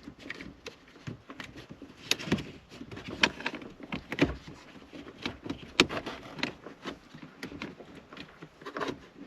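Irregular clicks and knocks of hard plastic parts being handled and fitted as the replacement blower-fan switch goes into the dashboard of a Mercedes W201 190D.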